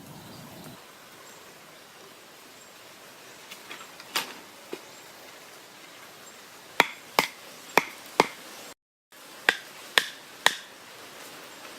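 A series of sharp, separate taps or knocks, one about four seconds in and then a run of seven spaced roughly half a second apart, over a low steady hiss.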